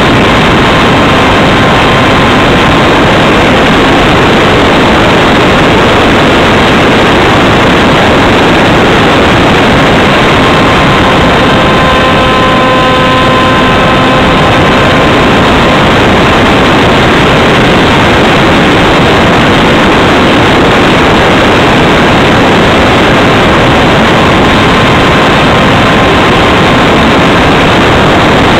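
Loud, steady rush of wind over a camera mounted on the wing of a flying Radjet 800 RC plane, mixed with the whine of its electric motor and propeller, which comes through more clearly about halfway through.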